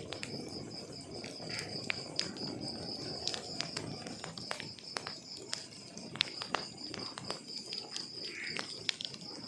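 Wood logs burning in a fireplace: irregular sharp crackles and pops over a low, steady burning hiss, with a constant high trill like an insect's behind it.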